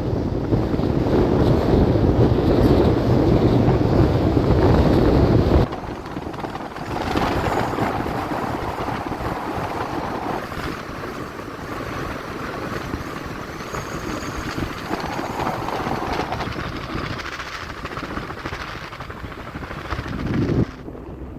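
Wind blowing across the microphone: a heavy low rumble that cuts off suddenly about six seconds in, then a softer, steady rush of wind.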